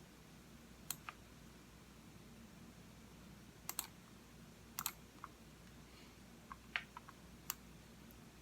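Computer mouse buttons clicking, faint and scattered: about a dozen clicks, several in quick pairs a fraction of a second apart, with a cluster near the end.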